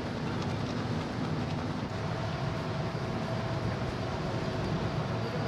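Steady low rumble and rushing noise of a large car ferry under way at sea. A faint steady hum-like tone joins about two seconds in.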